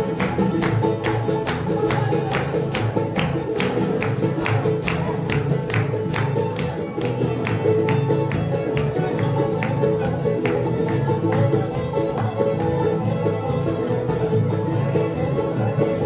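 Bluegrass band playing live: an instrumental passage of quick, evenly spaced plucked string notes over sustained tones, at a steady driving pulse.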